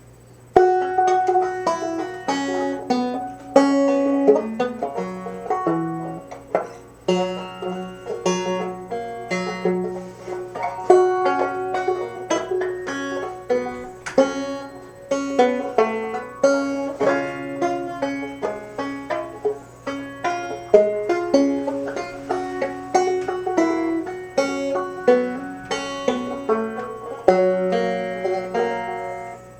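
Banjo being picked solo: a steady stream of quick plucked notes that starts about half a second in.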